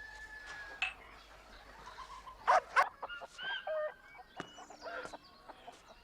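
Domestic fowl clucking and calling: a run of short calls, the two loudest close together about two and a half seconds in.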